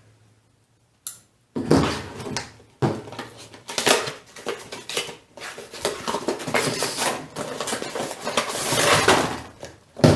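Plastic and cardboard action-figure packaging being handled and turned over, with crinkling, rustling and small clicks. It starts after about a second and a half of near silence.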